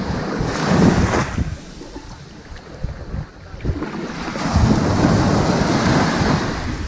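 Ocean waves breaking softly and washing up a sandy beach: one surge about a second in, a lull, then a longer surge from about four seconds. Low wind rumble on the microphone underneath.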